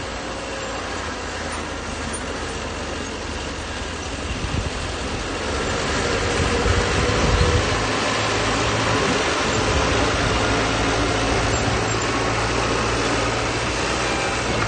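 Bulldozer diesel engine running steadily, growing louder about halfway through as it comes under more load.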